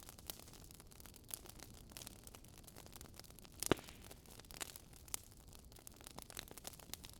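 Wood fire crackling: irregular small pops and snaps over a soft hiss, with one louder pop a little past halfway.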